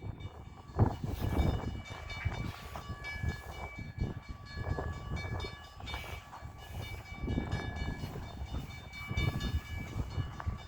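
CN train moving through a railroad crossing after its stop: an uneven low rumble with knocks and clatter from the rail cars, and steady high ringing tones that come and go.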